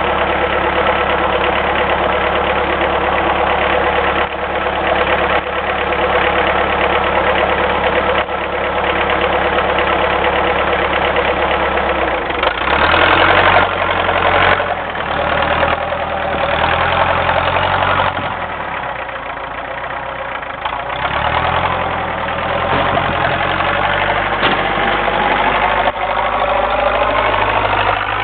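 Homemade doodlebug tractor's diesel engine running steadily while plowing, then its note rises and falls from about halfway through as the load and revs change, climbing again near the end.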